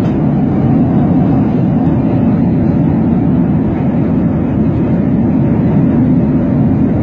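Steady airliner cabin noise heard from inside the cabin: the even, low hum of the engines and the airflow past the fuselage in flight.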